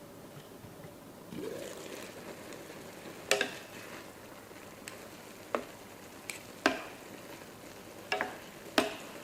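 Food sizzling in a hot pan; the sizzle swells about a second and a half in. A cooking utensil clacks sharply against the pan several times at uneven intervals, as the food is stirred.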